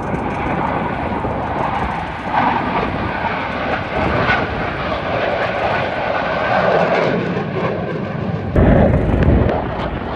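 Airplane engine noise from an aircraft in flight, a steady noise with no clear pitch. A short burst of low rumble comes near the end and is the loudest moment.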